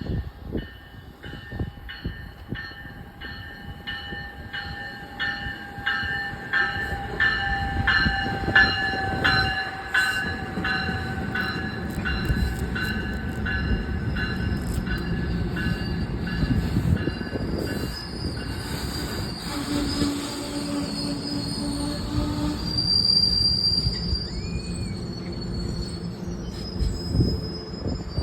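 Train passing at low speed: a rhythmic clatter of wheels over the rails, about two beats a second, with high-pitched wheel squeals and a steady rumble.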